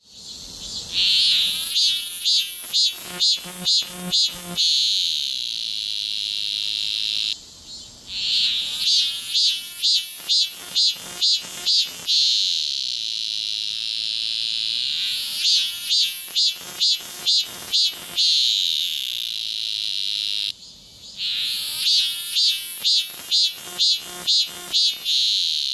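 Cicada singing loudly in repeated phrases: a run of quick pulsing calls, about three a second, runs into a steady high buzz lasting a few seconds, then breaks off briefly before the next phrase. There are about four phrases.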